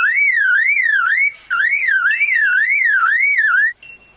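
Superb lyrebird mimicking a car alarm: a loud, whistled warble that sweeps up and down about three times a second, with a short break about a second and a half in, stopping shortly before the end.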